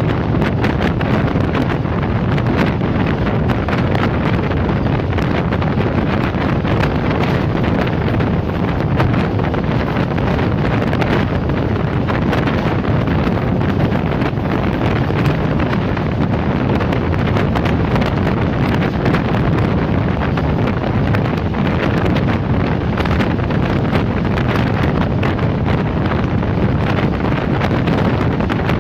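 Wind buffeting the microphone over the steady running noise of the Jinnah Express passenger train, its wheels rolling on the track as it runs through a station without stopping.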